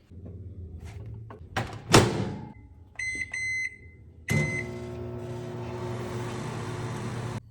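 Microwave oven door shut with a thud, then three short keypad beeps. The oven starts up about four seconds in and runs with a steady hum, which cuts off suddenly near the end.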